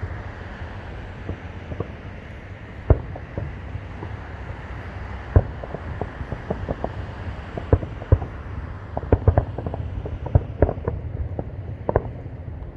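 Fireworks bursting in the distance: a run of sharp bangs and pops at irregular times, coming thicker in the second half, over a steady low background rumble.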